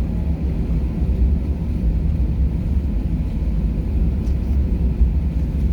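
Steady low rumble of a jet airliner heard from inside the passenger cabin, its engines running before takeoff.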